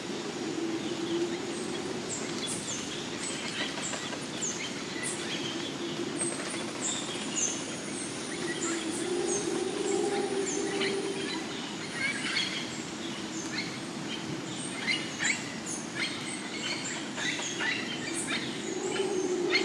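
Rainforest ambience: many birds chirping and calling with short, quick, falling notes, over a low steady drone that swells and fades every few seconds. A thin high steady tone runs through parts of it.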